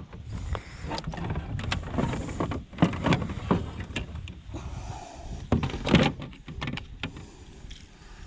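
Irregular knocks, clunks and rustling as a caught bass and fishing gear are handled on a fishing kayak, loudest about three and six seconds in, over a steady low rumble.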